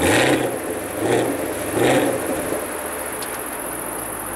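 Chevrolet Camaro SS's 6.2-litre V8 blipped three times while standing, each rev rising sharply through the quad exhaust, then settling back to a steady idle.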